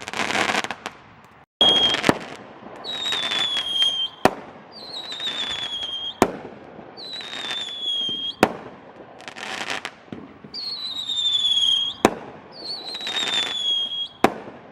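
Fireworks going off in a run: about six whistles, each falling slightly in pitch and ending in a sharp bang roughly every two seconds, with crackling between.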